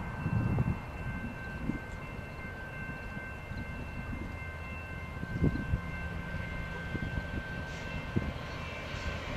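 Grade-crossing warning bells ringing steadily, heard as several held high tones over a low rumble with scattered thumps.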